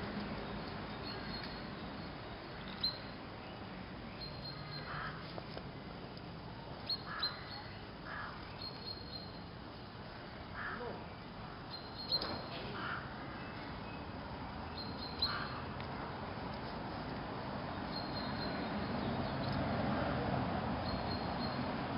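Outdoor background noise with scattered short bird calls, and a few sharp clicks every few seconds.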